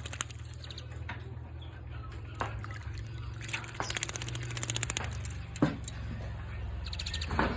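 Asian pied starling nestlings giving harsh, raspy begging calls in repeated bursts, over a steady low hum.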